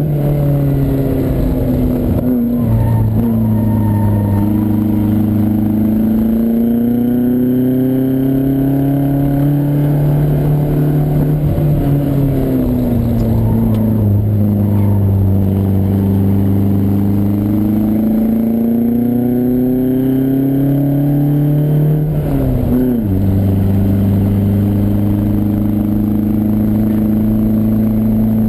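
Lancia Fulvia Rally S prototype's narrow-angle V4 engine heard from inside the car, pulling under load with its pitch slowly falling and rising through the bends. A little over twenty seconds in it revs sharply and drops with a gear change.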